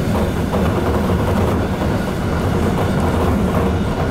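JR Shikoku local train running along the track, a steady low rumble of wheels and running gear heard from inside the front of the car.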